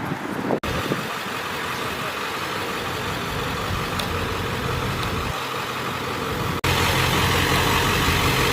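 Fire apparatus engine idling steadily. The sound cuts out for an instant twice, under a second in and about two-thirds through, and after the second break the low engine hum is louder.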